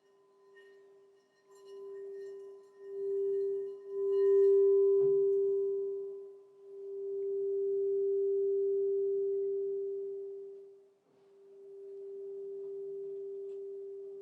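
Crystal singing bowl ringing with one steady pure tone that swells and fades several times, loudest about four seconds in, with a light knock about five seconds in.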